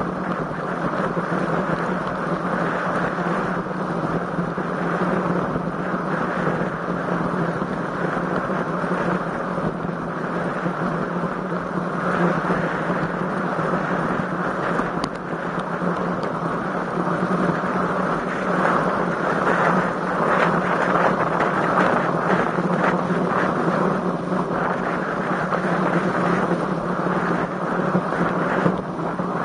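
Wind rushing over the microphone during a road bike ride, a steady noisy rush that grows a little louder and gustier in the second half.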